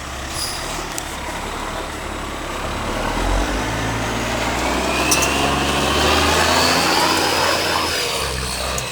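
Kenworth semi truck's diesel engine running hard as the truck spins donuts. It builds to its loudest about six seconds in and eases off near the end.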